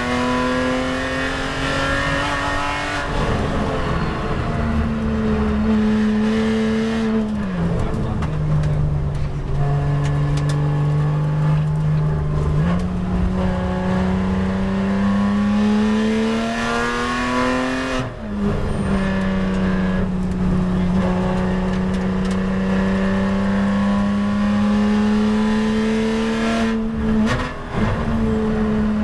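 Porsche 911 GT race car's flat-six engine under hard driving on track, heard from inside the car: the engine note climbs steadily in each gear and drops or jumps sharply at the gear changes, about three seconds in, around eight and thirteen seconds in, at eighteen seconds and again near the end.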